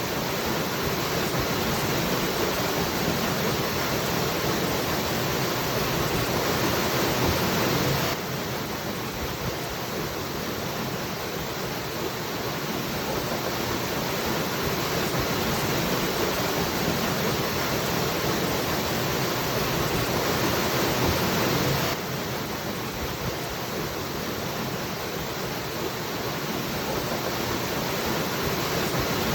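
Waterfall: a steady rush of falling water. The level drops suddenly about eight seconds in and again about twenty-two seconds in, then slowly builds back up.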